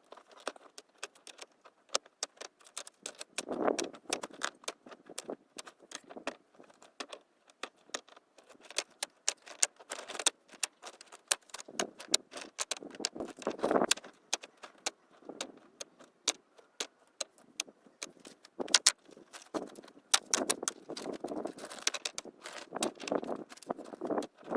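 Irregular clinking and clacking of hard objects being handled, with bouts of rustling every few seconds.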